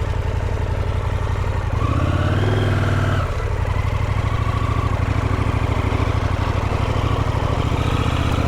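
Motorcycle engine running on an off-road trail, revved up briefly about two seconds in, then dropping back to a steady lower running.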